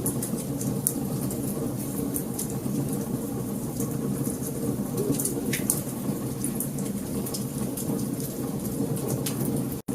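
Wood fire crackling: a steady low rumble of burning logs with scattered sharp pops and snaps, cutting out for a moment near the end.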